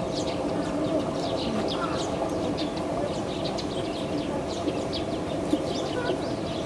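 Many small birds chirping in quick, short calls throughout, over a steady low background hum.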